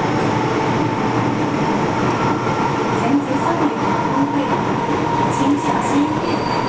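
MTR M-Train metro car running at speed in a tunnel: steady rumble of wheels on rail with a continuous whine held at one pitch, and a few faint high squeaks and ticks.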